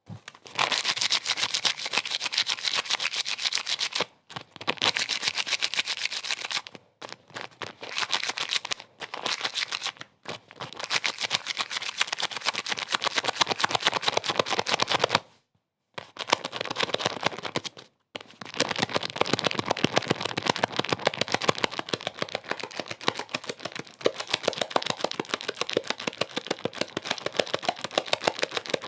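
Rapid, dense mechanical rattling, many clicks a second, running in stretches of a few seconds that stop abruptly and start again after short gaps.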